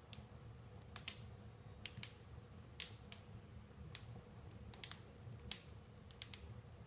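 Fire crackling: about a dozen sharp pops at irregular intervals over a low steady rumble.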